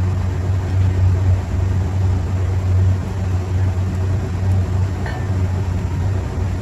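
Steady low mechanical hum that does not change throughout, from machinery running in the background.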